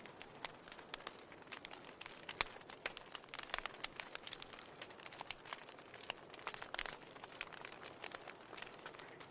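Wood fire in a fireplace crackling: frequent irregular sharp pops and snaps over a soft steady hiss.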